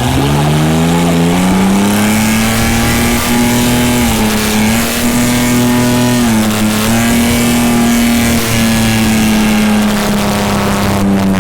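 Pickup truck engine revving up and held at high rpm during a burnout, dipping briefly twice and falling off near the end, with the hiss of spinning tires underneath.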